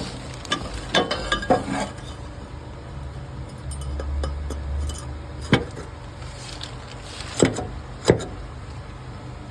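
Metal clanks and clinks, about six separate knocks of exhaust pipe pieces and tools being handled and fitted, with a brief low hum midway.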